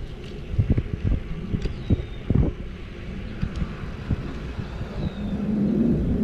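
E-bike ride with wind buffeting the microphone. Irregular low knocks and rattles come from the bike going over bumps, and a steadier low rumble builds near the end.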